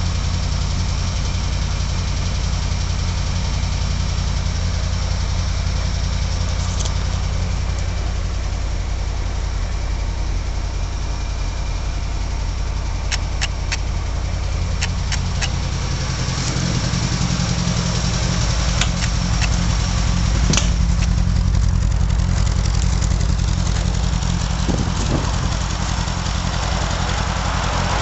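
1980 Leyland Mini's A-series four-cylinder engine idling steadily, just brought back to life after about three months of sitting. It runs a little louder for a few seconds past the middle, and a few light clicks sound over it in the second half.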